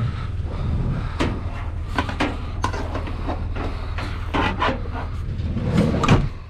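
A vehicle engine running low and steady, with a string of knocks and clunks over it, the loudest about six seconds in.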